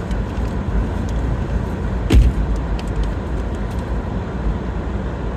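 Car running along the road, heard from inside the cabin as a steady low rumble, with one sharp knock about two seconds in.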